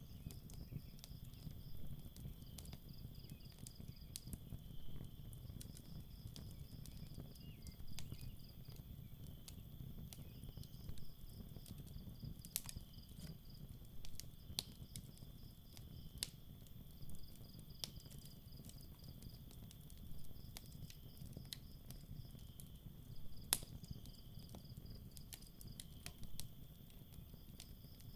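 Crickets chirping in quick pulsed trains over a steady insect trill, with a campfire crackling and giving occasional sharp pops, the loudest about halfway and near the end.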